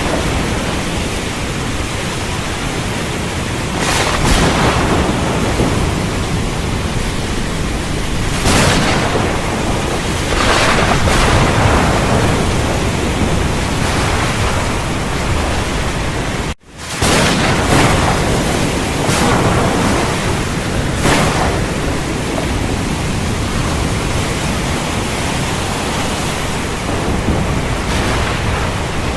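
Heavy rain falling steadily, with thunder rumbling in several swells. A brief break in the sound just past halfway.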